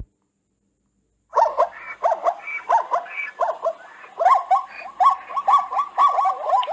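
Zebra calling: a fast, unbroken run of short, yipping barks that begins a little over a second in.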